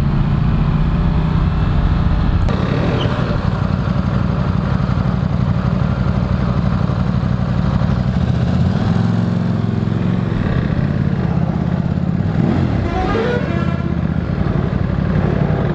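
Motorcycle engine running steadily under way, heard from on board the bike. About thirteen seconds in, a short wavering pitched sound rises over it.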